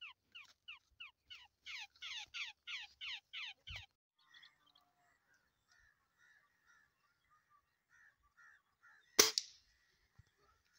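A bird held in the hand gives rapid squawks that fall in pitch, about three a second, stopping abruptly about four seconds in. After that there are faint bird calls, then a single sharp gunshot about nine seconds in.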